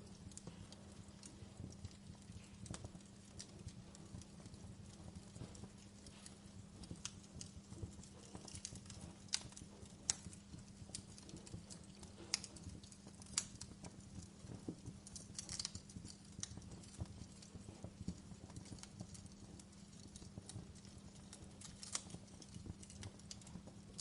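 Wood fire in a fireplace crackling, with irregular sharp pops and snaps, a few louder ones among them, over a steady low hum.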